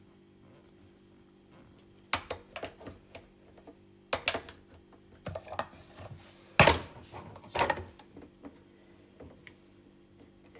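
Irregular sharp clicks and knocks from a Delta coffee machine's parts being handled and fitted, over a faint steady hum; the first two seconds are quiet.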